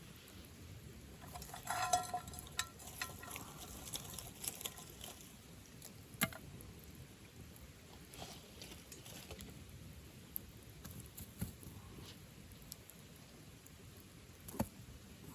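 Wood campfire burning, with irregular small crackles and occasional sharper pops: a busier patch about two seconds in, a louder pop about six seconds in and another near the end.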